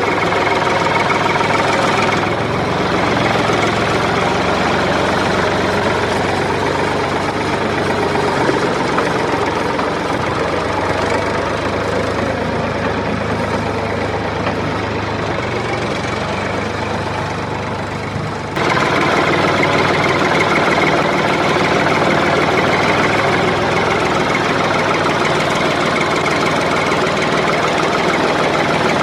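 A motor running steadily with a continuous buzzing drone. It gets a little quieter, then jumps back up suddenly about two-thirds of the way through.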